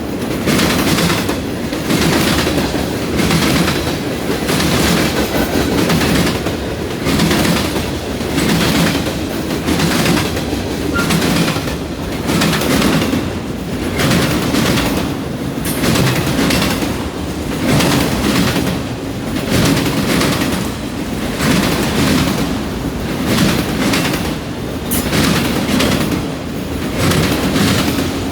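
Freight cars of a long CN freight train rolling past, the wheels clacking over rail joints and a junction switch in a steady, evenly repeating rhythm over a constant rumble.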